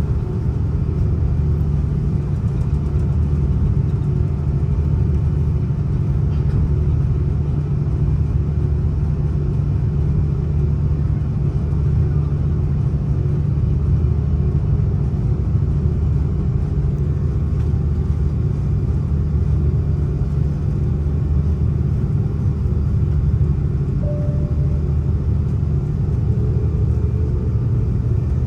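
Steady low drone of an Airbus A330-300's engines and airflow heard inside the passenger cabin, holding an even level with no change in pitch.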